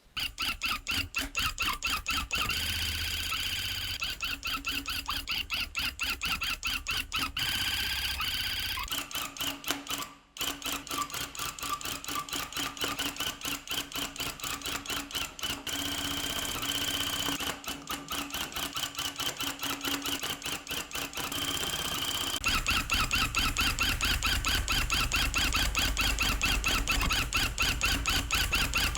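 Electric rug-tufting gun running, its needle mechanism chattering rapidly and evenly as it punches yarn into the backing cloth. It stops briefly about ten seconds in, then carries on, running with a heavier low rumble from about three-quarters of the way through.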